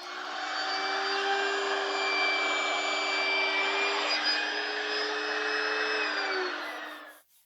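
Compact trim router running at full speed in a hand-planer base, a steady high whine over a rushing noise, switching off about seven seconds in.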